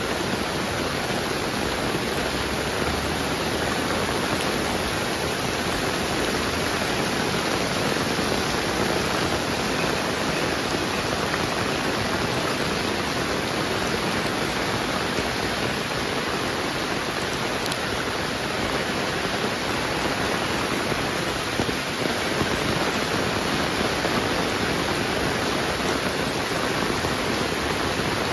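Heavy rain falling and pattering on surfaces in a dense, steady hiss that doesn't let up.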